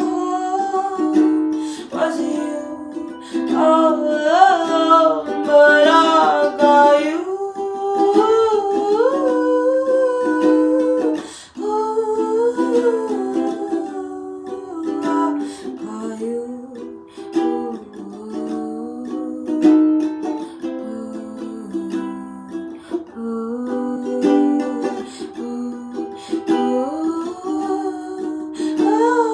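A ukulele song: plucked and strummed ukulele with a wordless sung melody wavering over it.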